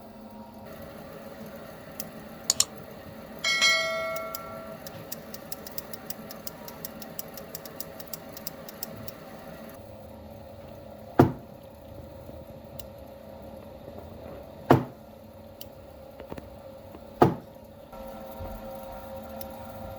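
Metal parts being handled at a workbench: a piece of metal rings briefly when struck, a run of quick even ticks follows, then three sharp knocks spaced a few seconds apart over a steady low hum.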